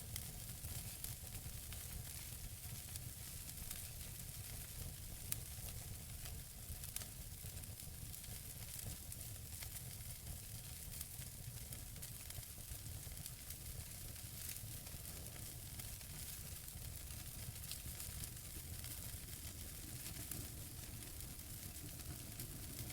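Wood fire burning in a fireplace: a steady crackle of burning logs with many small sharp pops, one louder pop about five seconds in, over a low steady rumble.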